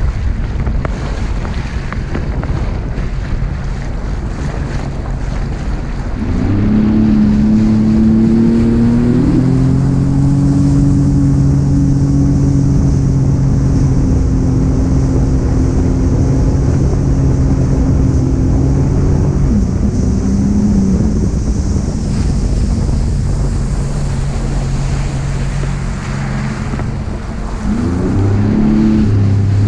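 Jet ski engine over rushing wind and water: about six seconds in it revs up and holds a steady pitch, eases off around twenty seconds, then revs up again near the end.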